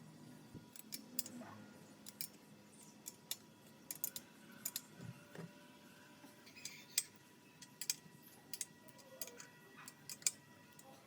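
Sharp clicks and light taps, a dozen or more at irregular intervals, over a faint steady hum.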